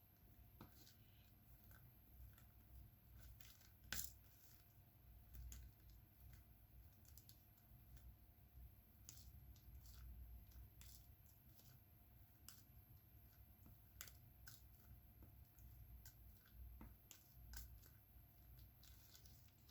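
Faint, irregular small clicks and taps of diamond painting: resin drills being picked up with the drill pen and pressed onto the canvas, with one sharper tap about four seconds in, over a low steady room hum.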